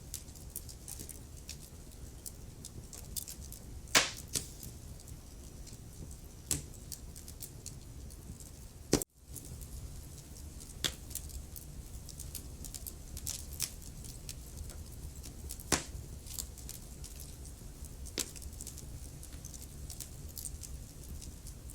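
Wood fire burning in a fireplace: a steady low rumble and hiss with irregular small crackles and a few louder pops. About nine seconds in the sound cuts out for a moment after a sharp pop, then returns.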